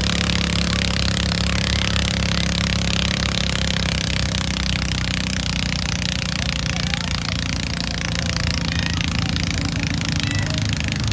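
Tractor pull engine running steadily, a deep even note under a dense noisy din.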